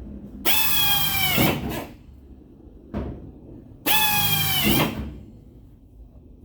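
Handheld power drill run in two short bursts of about a second each, its motor whine dipping as the trigger is let go, with a brief click between the bursts.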